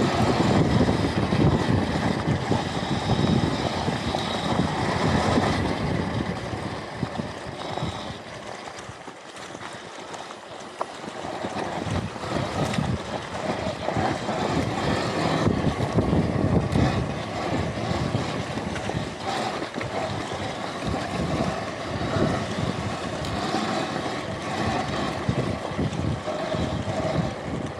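Electric off-road motorbike being ridden over dirt: wind buffeting the microphone and tyre and trail noise, with a faint motor whine. The sound starts abruptly and eases off for a couple of seconds about nine seconds in.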